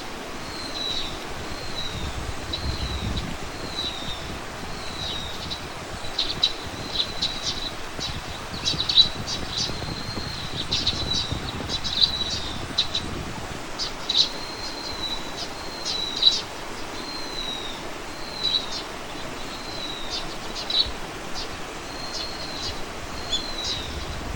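Songbirds calling: one bird repeats a short falling note about once a second, and from about six seconds in other birds add quick sharp chirps among them, over a faint rustle of wind.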